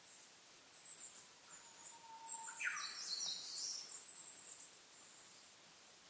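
Small wild birds calling: a cluster of high, shrill chirps from about two seconds in, lasting around two seconds, over a faint steady outdoor hiss, with a thin steady whistle just before it.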